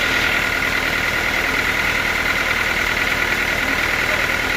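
Sawmill machinery running steadily: a continuous engine drone with a steady high whine over it.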